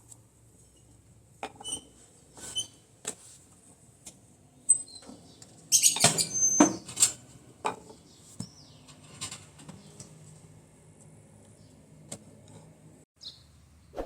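Scattered light clicks and taps, with a quick cluster of louder ones about six seconds in.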